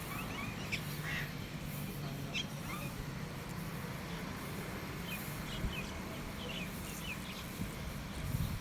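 Birds chirping: short high calls scattered through, over a steady low rumble in the background.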